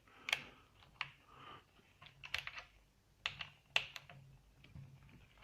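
Small metal hex keys clicking and clinking as they are handled, an irregular scatter of light sharp clicks, a few louder ones a little over three and nearly four seconds in.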